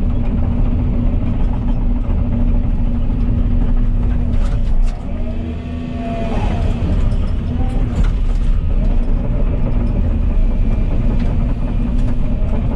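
Volvo EC220E excavator's diesel engine running steadily under working load, with hydraulic whine. It eases off briefly about five seconds in, and a few sharp clanks come through.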